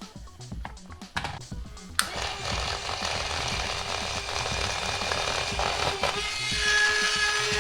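A toy car's small electric motor is switched on with a sharp click about two seconds in. It then runs fast and steadily under high voltage with a buzzing whine, and more whining tones join near the end.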